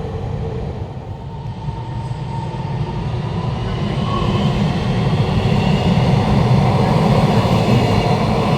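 A train running on rails, a steady low rumble that grows gradually louder.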